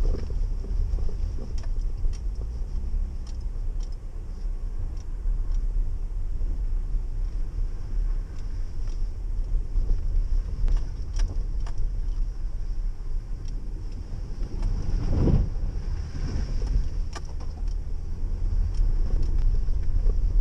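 Jeep 4x4 driving along a dirt fire road, heard from inside the cab: a steady low engine and road rumble with scattered rattles and knocks, and a louder bump about three-quarters of the way through.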